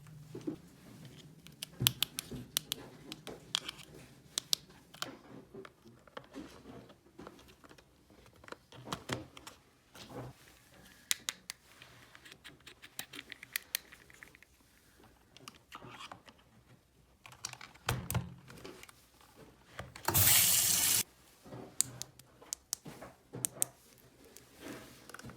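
Small plastic toy pieces clicking and tapping as they are handled, in irregular clusters. There is a loud hiss lasting about a second, about three-quarters of the way through.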